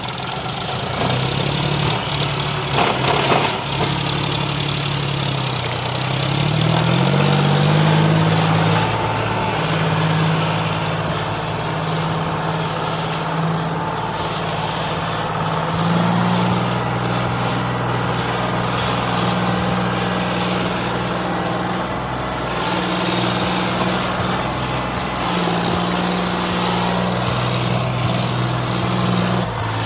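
John Deere 5036 tractor's diesel engine running with a loaded soil trolley. The engine speed rises about seven seconds in and changes again about halfway through, then holds steady.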